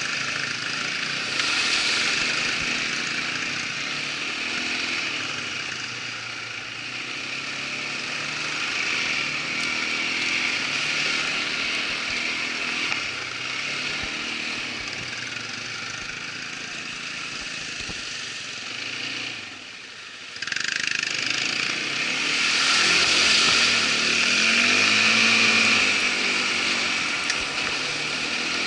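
Irbis ATV 200 quad bike's small single-cylinder engine running under way, its pitch rising and falling with the throttle. The sound drops away briefly about twenty seconds in, then comes back louder as it revs up again.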